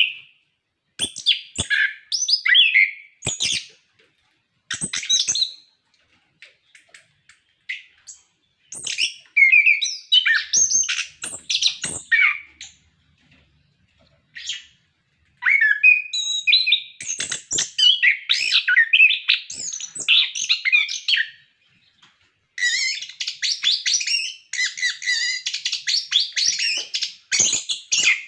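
Orange-headed thrush singing in full song: quick, varied phrases of warbles and whistles with short pauses between them, running together into a fast, unbroken stream of song near the end.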